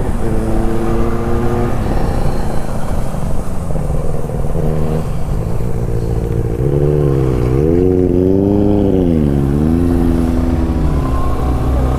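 Benelli 600i's inline-four engine and exhaust under way while riding. It runs steadily, then rises and falls in pitch a few times about two-thirds of the way through.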